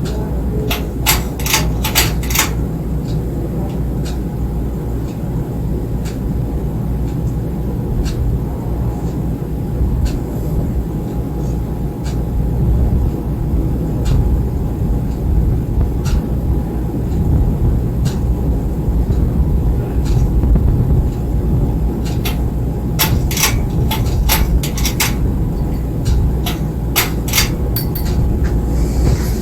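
Ceiling fan running: a steady low rumble with a faint steady hum. Sharp clicks come in clusters near the start and again through the last several seconds, with a few scattered between.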